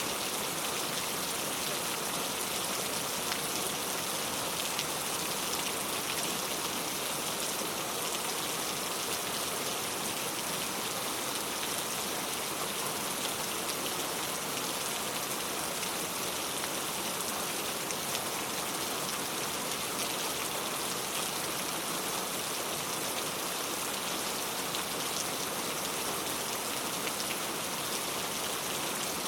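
Steady heavy rain falling and pattering on surfaces, an even hiss with many small drop ticks.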